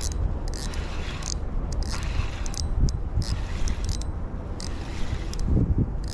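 Spinning reel being cranked while a hooked fish is fought, giving irregular scraping, clicking spurts, over a steady wind rumble on the microphone.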